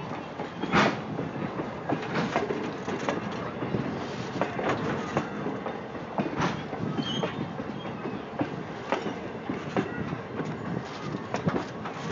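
Passenger train rolling slowly past, its steel wheels clicking and clanking irregularly over the rail joints above a steady rumble.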